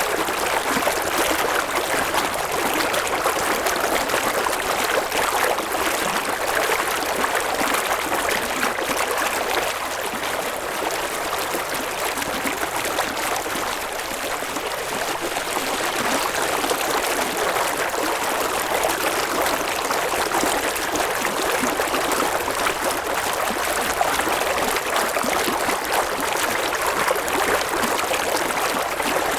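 A river flowing over rocks: a steady rush of running water with a light babbling.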